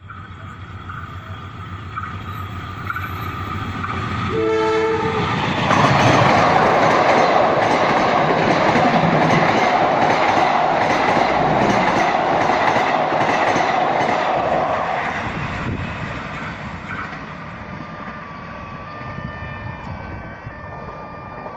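Passenger train approaching and sounding its horn once, for about a second and a half, then passing close by with loud wheel-on-rail noise that fades away after about fifteen seconds.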